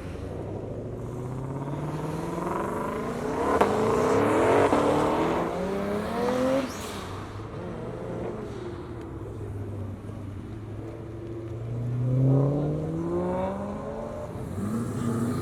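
Performance car engines accelerating away, their notes rising in pitch, with one strong pull a few seconds in and another near the end. There is a single sharp crack during the first pull.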